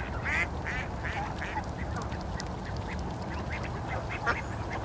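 A flock of geese calling: many short, overlapping honks over a steady low rumble.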